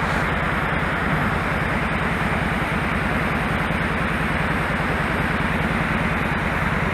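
2001 Kawasaki Drifter 1500's V-twin engine running steadily under way, its firing pulses under a heavy rush of wind noise on the head-worn camera's microphone.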